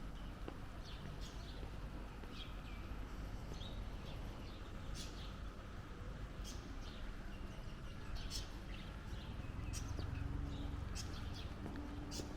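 Small birds chirping repeatedly in short high calls over a steady low rumble of distant city traffic; a low steady engine hum comes in near the end.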